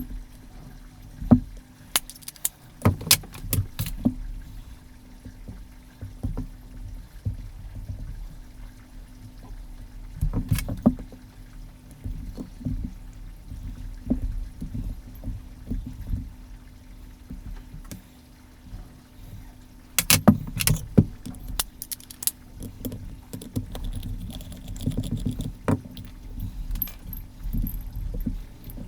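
Handling noise from taking apart a dynamic microphone: small metal and plastic parts clicking, tapping and clinking against tools, with low rumble between. The clicks come in clusters about two to four seconds in and again about twenty seconds in, over a faint steady hum.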